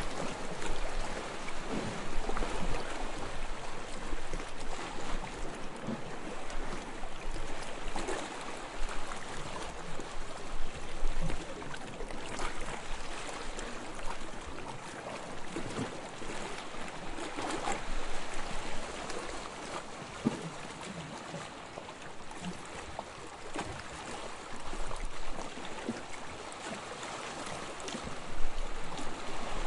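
Small waves lapping and splashing at the water's edge: a continuous wash of water broken by frequent small splashes, with no rhythm.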